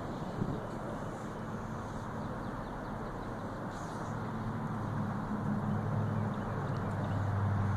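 Approaching train: a steady rumble, with a low engine drone coming in about halfway through and growing louder toward the end.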